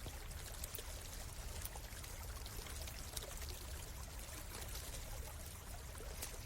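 A small forest stream runs and trickles steadily over rocks. Scattered sharp little snaps of a campfire crackling are heard above it.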